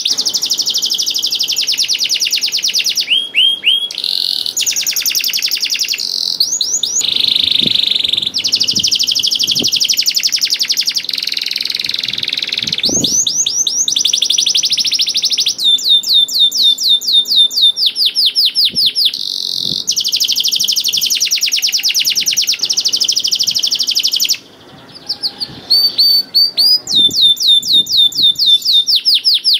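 Domestic canary singing a long, continuous song of fast trills and rapid repeated notes, with a short pause a little past three-quarters of the way through.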